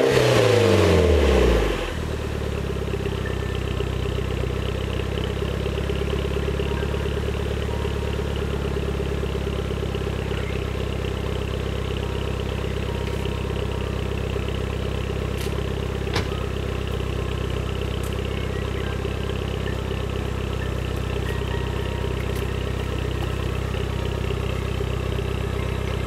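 Mitsubishi Lancer Evolution VII GT-A's turbocharged 4G63 inline-four through a 5ZIGEN Pro Racer aftermarket muffler. A rev falls back over the first two seconds, then the engine idles steadily.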